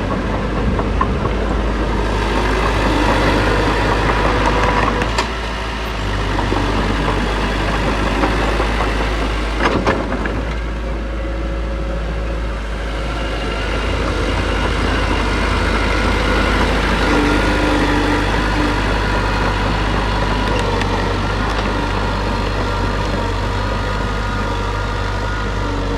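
Heavy earthmoving machinery's engine running steadily and fairly loud, its level shifting a few times, with a sharp clank about ten seconds in.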